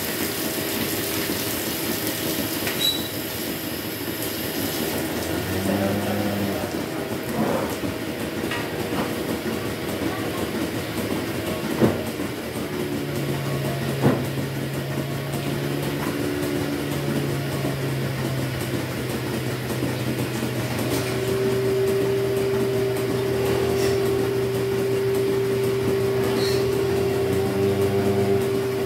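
Dairy milking plant running steadily in the milking shed: a continuous machine noise with low hums, and a few sharp metal knocks a little before and after the middle.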